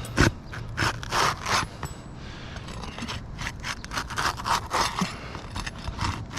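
Asphalt roof shingles being worked loose by hand: a sharp click, then repeated short scrapes against the gritty shingle surface that come quicker toward the end, as the sealed tabs are broken free.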